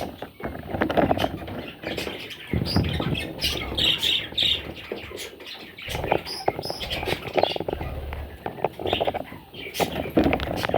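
Budgerigar chicks scrabbling and shuffling about, with scratchy clicks and rustling and a few short squeaky calls.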